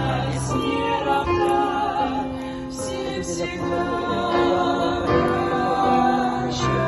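A group of voices, women's among them, singing a Christian worship song together in slow, held notes.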